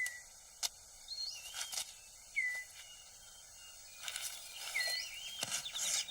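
Rainforest floor sounds: dry rustles and snaps of leaf litter and twigs as a six-plumed bird of paradise clears its display court, growing busier about four seconds in. Short whistled calls from forest birds come every second or so over a faint, steady insect hum.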